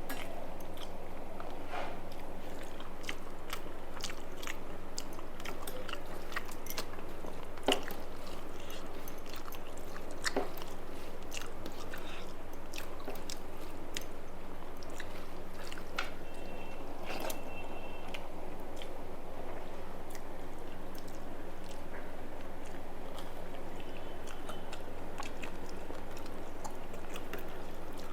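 Close-up eating: chewing and biting, with crisp crunches of fried food and many small sharp clicks, one louder click about eight seconds in. A steady low hum runs underneath.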